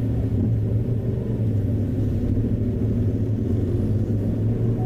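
Steady low rumble of a motor vehicle: an even engine hum with road noise, with no sharp events.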